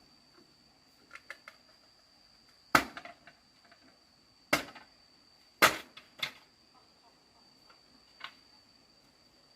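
Four loud, sharp knocks at uneven intervals, with a few fainter taps between them, over a steady high-pitched tone.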